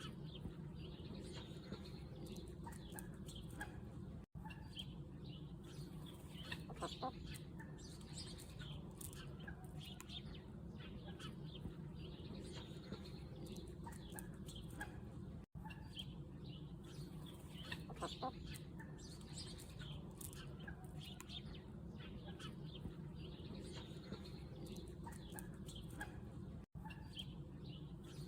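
Chickens clucking softly in short scattered calls, over a steady low hum. The sound cuts out completely for an instant three times.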